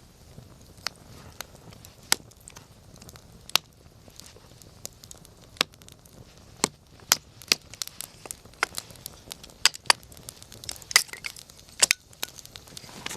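Wood campfire crackling, with irregular sharp pops and snaps that come more often in the second half.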